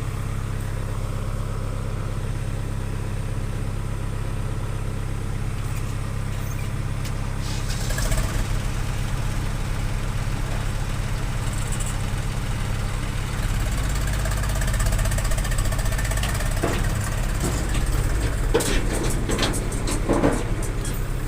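Tractor's diesel engine running steadily, its note changing about eight seconds in and again a few seconds later as the tractor is moved forward. A few knocks near the end.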